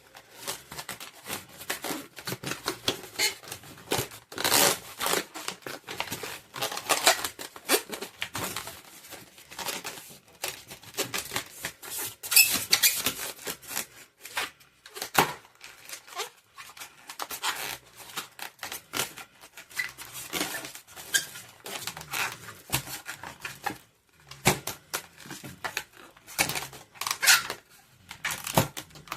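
Latex twisting balloons being handled and twisted: irregular squeaking and rubbing of rubber on rubber.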